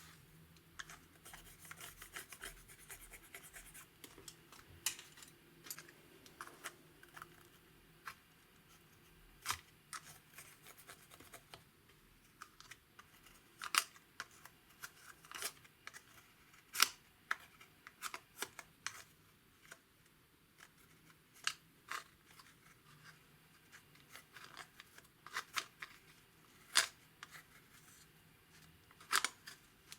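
Clear slime being worked by hand, giving irregular sticky clicks and crackling pops, with a few sharper snaps.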